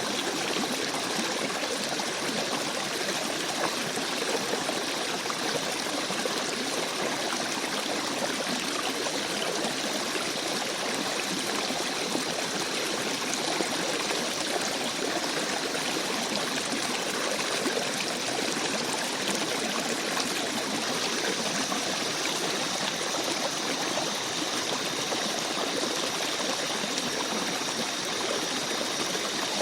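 Small forest stream babbling and trickling over rocks in a steady, even rush of flowing water.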